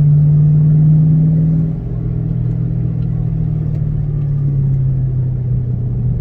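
2006 Mustang GT's 4.6-litre V8 running at steady speed under throttle, a deep steady drone; a little under two seconds in it eases off and the note drops slightly lower and quieter, then carries on steadily.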